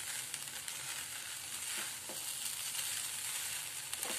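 Poha sizzling in a nonstick pan on the stove while a silicone spatula stirs it, with a few light taps of the spatula against the pan.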